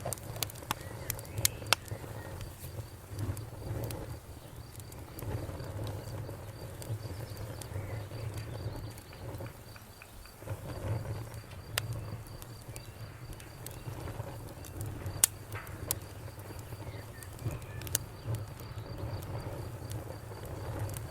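Wood campfire burning, with a low steady rumble of flame and scattered sharp crackles and pops from the burning wood. A faint, high, evenly pulsing chirr, like an insect, runs underneath.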